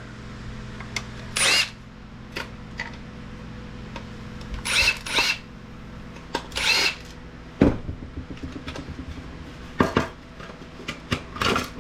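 Cordless electric screwdriver spinning in short bursts, backing out screws to free a circuit board, followed by several sharp clicks and knocks of parts being handled.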